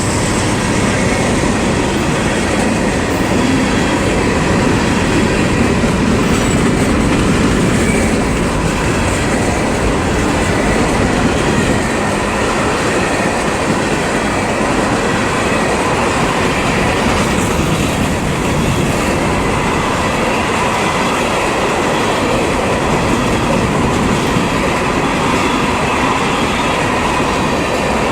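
CSX freight train rolling steadily past at close range, its cars running over the rails.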